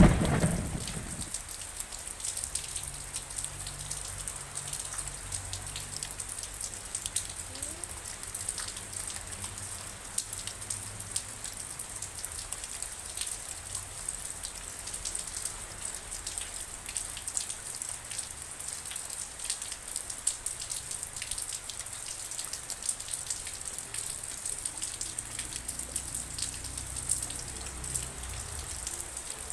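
Steady rain falling, with many individual drops ticking distinctly over an even hiss. A thunder rumble dies away in the first second.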